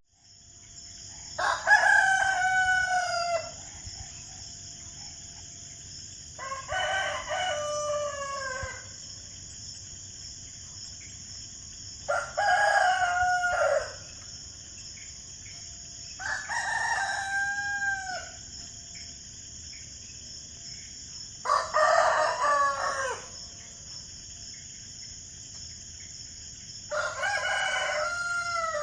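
A rooster crowing six times, roughly every five seconds, each crow about two seconds long and falling in pitch at the end. A steady high-pitched hiss runs under the crows.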